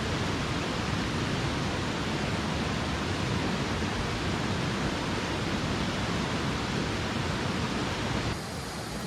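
Steady rushing of a mountain stream, an even hiss of flowing water. About eight seconds in it drops suddenly to a quieter, duller rush.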